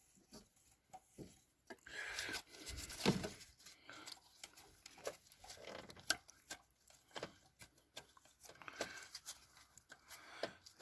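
Hands working on engine-bay parts: scattered light clicks, knocks and rustling as hoses and fittings are handled and pushed into place, with a slightly louder knock about three seconds in.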